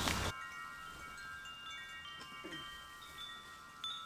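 Faint wind chimes ringing: several clear tones at different pitches overlapping one another, with a light tap near the end.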